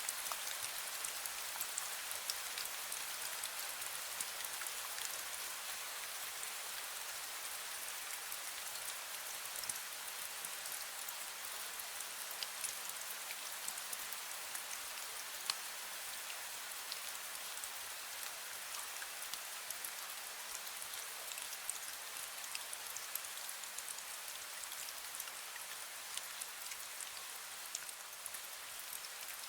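Light rain falling steadily, a dense, even hiss sprinkled with many small individual drop ticks.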